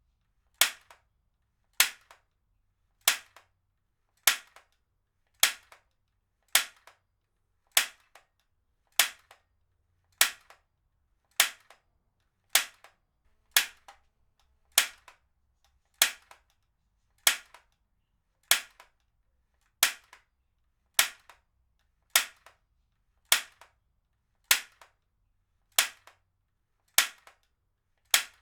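Heavy-duty stapler firing over and over at a steady pace, one sharp snap about every 1.2 seconds, each followed closely by a much fainter click.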